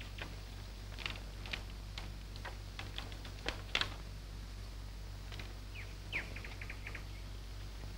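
Small birds chirping: scattered short, sharp chirps, a few sliding down in pitch, over a steady low hum.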